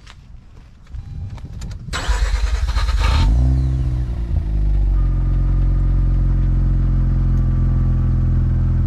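Mazda RX-8's two-rotor Wankel rotary engine being started: the starter cranks about two seconds in, the engine catches with a brief rise and fall in revs, then settles into a steady idle.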